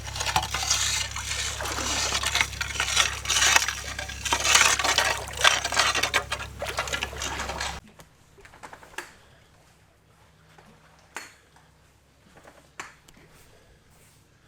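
Water splashing and sloshing in lake shallows, with many small irregular clinks and a steady low rumble. It cuts off abruptly about halfway through, leaving near quiet with a few faint clicks.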